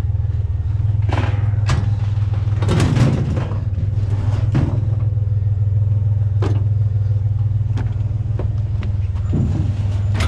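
Vehicle engine running steadily with a low hum, while a series of separate knocks and clatters sounds over it, busiest about three seconds in.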